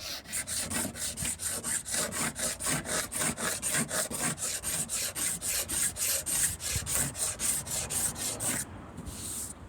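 Knife blade scraping the burred surface off a plastic boat hull in quick, even strokes, about five a second, stopping near the end.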